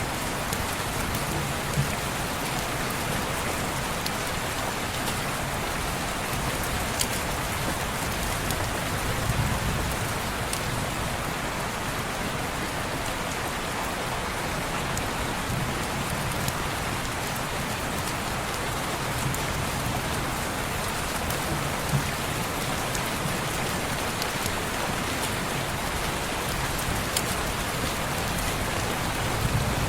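Steady rain falling on window glass: an even, continuous hiss with a few sharp ticks scattered through it.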